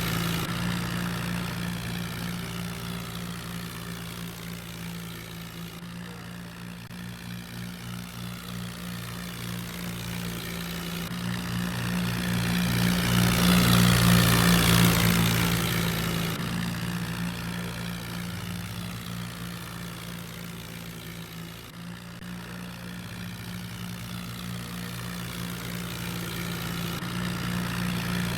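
Tractor diesel engine running steadily. It grows louder to a peak about halfway through, then fades again, as if the tractor comes close and moves away.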